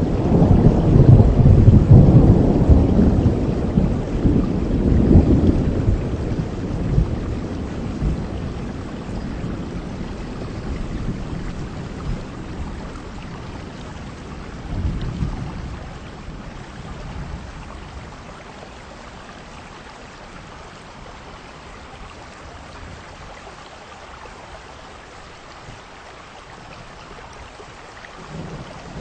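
Heavy rain falling steadily under a long roll of thunder that is loudest in the first few seconds and slowly dies away, with a brief swell about fifteen seconds in; the next rumble of thunder begins near the end.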